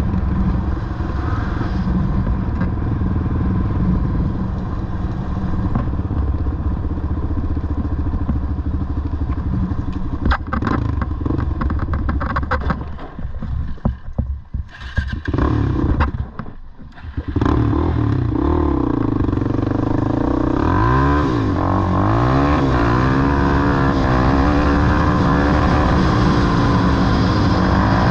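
Off-road vehicle engines running loud with some clatter; the sound cuts out briefly a few times about halfway, then the engine pitch rises and falls over and over as it is revved through the gears.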